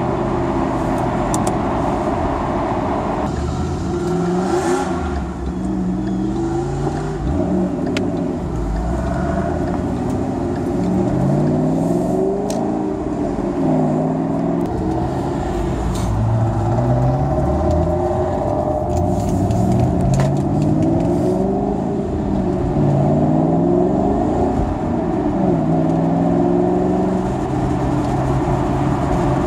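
A car engine heard from inside the cabin while driving, its pitch climbing and dropping back several times as it accelerates and shifts through the gears, over steady road noise.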